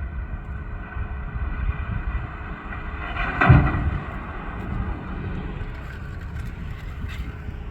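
Tractor engine running steadily, with a brief louder surge about halfway through.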